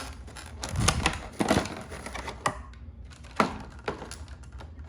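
Cardboard box and packaging being handled: a short rustle about a second in, then several sharp taps and clicks at uneven intervals.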